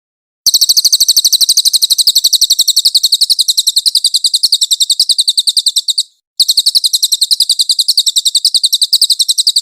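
Cililin songbird singing its rapid high 'nembak' trill: a fast run of sharp repeated notes, about a dozen a second. It comes in two bursts, one of about five and a half seconds and one of about three and a half seconds, with a short break between them.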